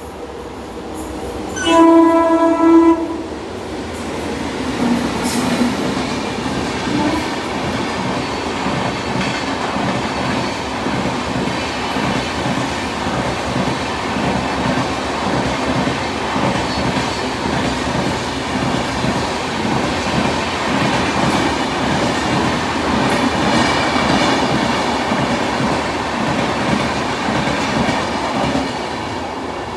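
Indian Railways Garib Rath express passing: the locomotive horn sounds once, a loud blast of about a second and a half near the start, followed by the steady rumble and clatter of the coaches running by, which eases off near the end.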